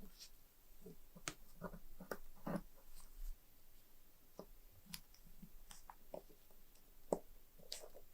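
Irregular small clicks and taps from handling a small metal lighter and its parts, with a sharper click about seven seconds in.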